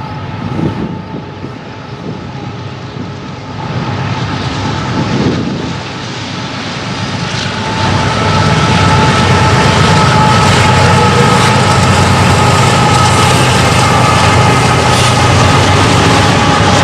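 Diesel locomotives of a freight train approaching and passing close, their engines and a steady whine growing louder until, about halfway through, they hold at a loud, steady level.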